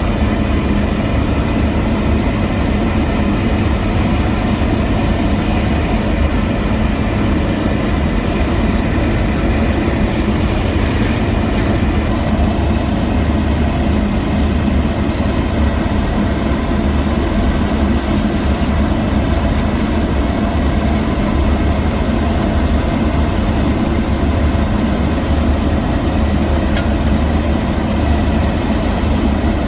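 Heavy diesel construction machinery running steadily, a continuous low engine sound with no pauses or changes.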